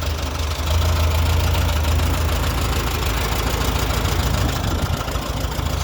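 Hand-crank-started tractor engine idling steadily, freshly started for its first run of the year.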